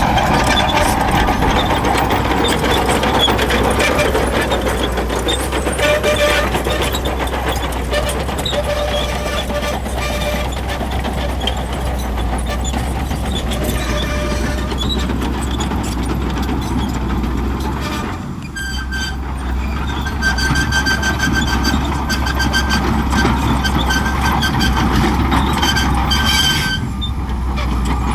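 Crawler bulldozer working: a steady low engine rumble with thin, high-pitched squeals coming and going over it. The sound dips briefly twice, near two-thirds of the way through and again near the end.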